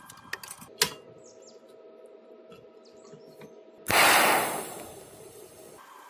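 A few sharp clicks, then about four seconds in a sudden loud burst of hissing noise that fades away over about two seconds.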